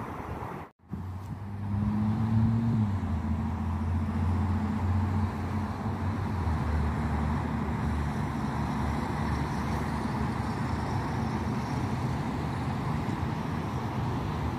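A car engine running close by with a steady low hum that drops slightly in pitch about two and a half seconds in, over background traffic noise. The sound cuts out briefly just under a second in.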